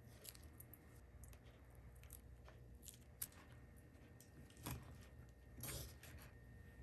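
Near silence: room tone with faint scattered clicks, one sharper click about three seconds in, and two short soft rustles of light handling near the end.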